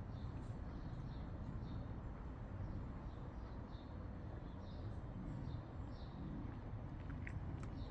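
Faint, short, high chirps of a small bird, repeating irregularly about once or twice a second, over a steady low rumble.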